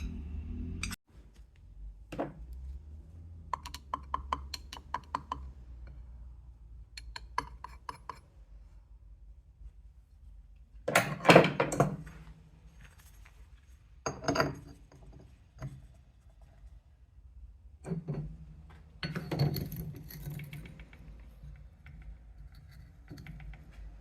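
Small metal parts and hand tools being handled on a workbench during a scooter engine rebuild: scattered clinks and short rattles, with a few louder clattering bursts around the middle and near the end.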